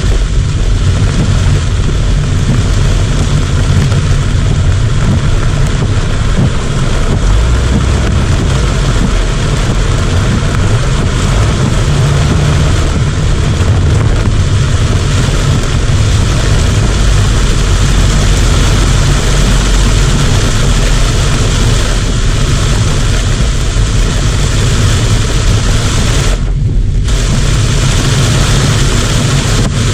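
Heavy typhoon rain: a loud, steady hiss with a deep rumble underneath, briefly dropping away in the upper range near the end.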